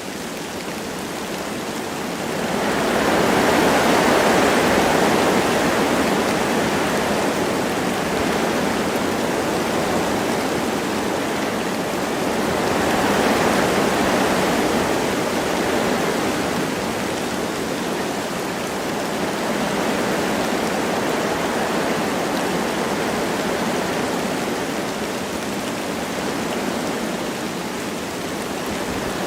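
Wind rushing through forest trees with light rain falling. The rushing swells in gusts, about three seconds in and again near the middle.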